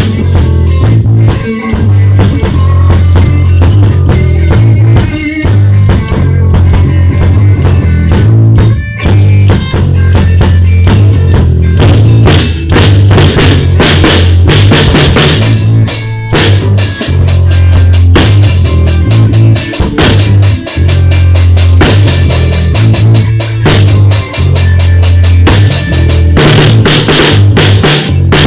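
A rock band playing loudly, led by a drum kit with kick drum and snare hits, over a heavy bass line and guitar.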